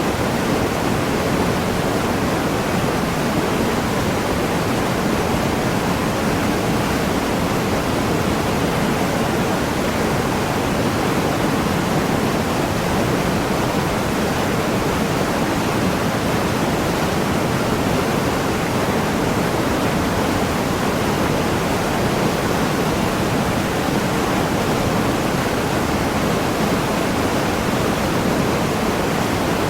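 Waterfall: a steady, dense rush of falling water with no change in level.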